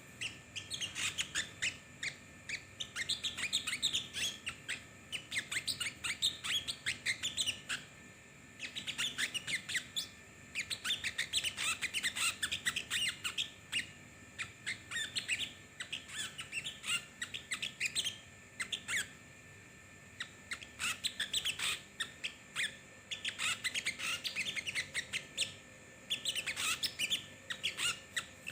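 A small songbird, the sogon, singing a busy, chattering song of rapid high chips and trills. It comes in runs of a few seconds with brief pauses between them.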